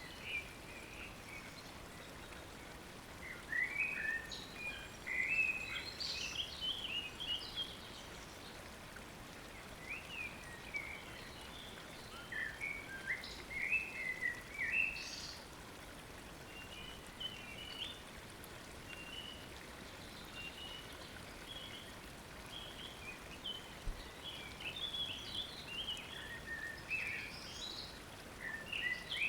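Birds chirping and twittering in short, high calls that come in bunches, over a steady wash of running water from a stream.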